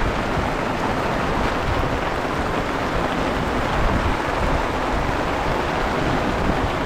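Heavy rain falling steadily, a dense even hiss of rain on the ground and surfaces.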